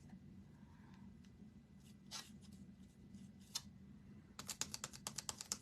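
A few faint soft scrapes, then from about four seconds in a rapid run of light, sharp clicks, several a second.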